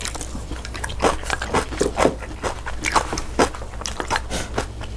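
A person chewing food close to the microphone, with repeated crunchy bites, a few a second and unevenly spaced.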